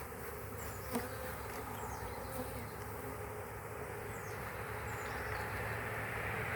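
A mass of honeybees buzzing in flight around a hive they have just been shaken into from a package, a steady drone of thousands of bees at once that grows slightly louder near the end.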